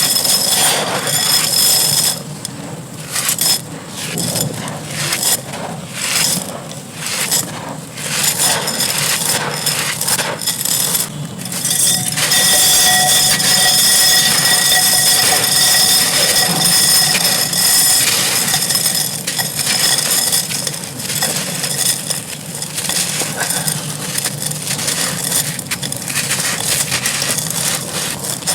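Dry, gritty clay crumbling and crunching in dense, crackling bursts. It is patchier at first and becomes a steadier, denser crunch about halfway through.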